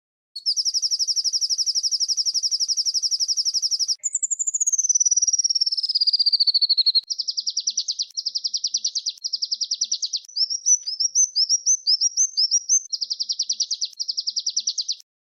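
A small songbird singing fast, high trills, the rolling 'tembakan ngerol' trill prized in songbird tutoring recordings. It opens with an even trill for about three and a half seconds, then a trill that slides downward in pitch, then a run of short trills and quick rising chirps, and cuts off suddenly near the end.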